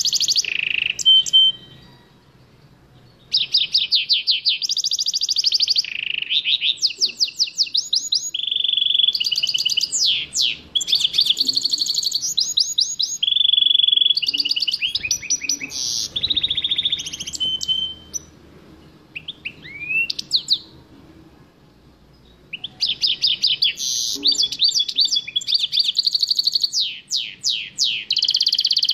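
A songbird singing long, varied phrases of rapid trills, buzzy runs and sweeping chirps, pausing twice for a few seconds, a couple of seconds in and again near the middle.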